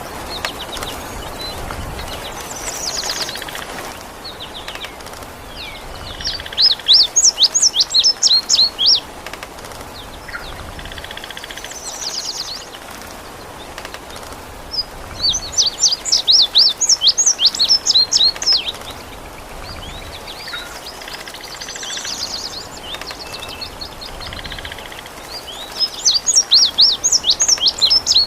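A songbird sings three loud phrases of rapid high notes, each about three seconds long and about ten seconds apart, with softer calls in between. A steady hiss of rain runs underneath.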